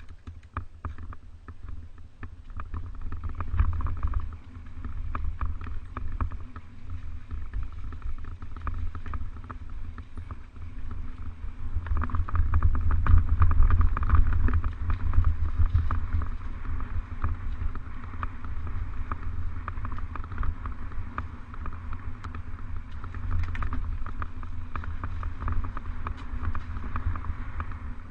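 Mountain bike riding over a rough trail, the wind buffeting the microphone in a deep rumble, with a constant rattle of small knocks and a hiss from the tyres. It gets louder for a few seconds about four seconds in and again around twelve to sixteen seconds in.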